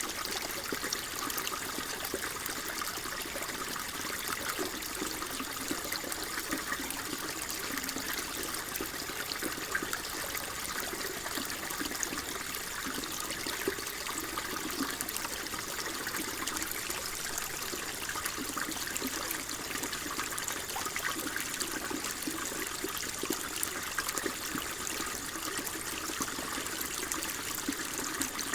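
Water flowing and trickling steadily, an even splashing hiss with a fine crackle all through.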